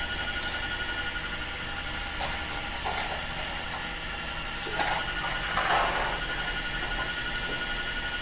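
An electric motor running steadily with an even whine, with a few short scraping rubs over it about halfway through.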